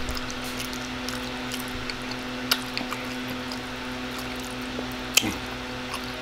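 Close-miked wet chewing and mouth sounds of a person eating spaghetti, with scattered sharp clicks, the loudest about two and a half seconds in and just after five seconds, over a steady low hum.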